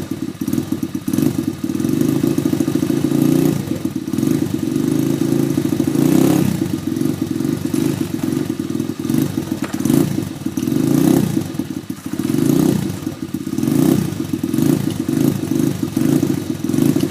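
Dirt bike engine running as it is warmed up, the throttle opened now and then so the revs rise and fall several times.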